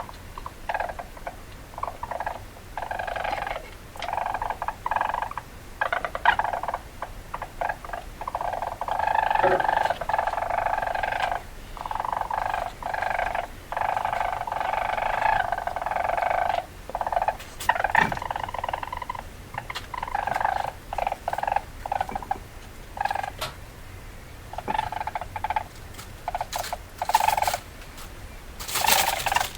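Weasel chattering: rapid, stuttering runs of calls broken by short gaps, starting and stopping irregularly.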